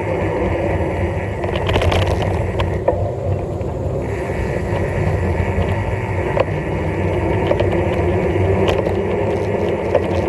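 Steady road and wind noise from a bike on the move, a low rumble under a broad hiss, with a few short clicks and rattles.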